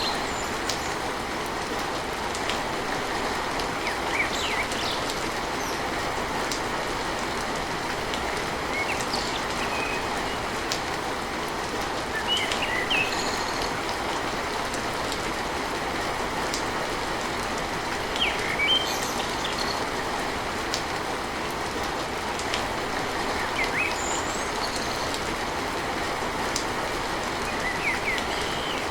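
Steady heavy rain pattering on a tin roof, with short high chirps every few seconds.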